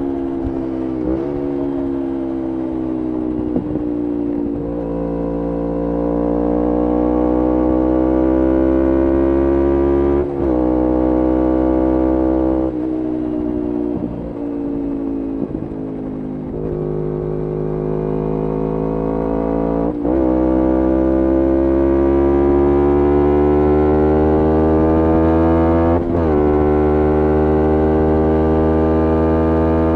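2011 Kawasaki Ninja 250R's parallel-twin engine through a full Graves racing exhaust under way, the revs climbing in each gear and dropping sharply at quick upshifts, three times in all. A quieter stretch in the middle, with the revs sagging, comes when the throttle is eased off.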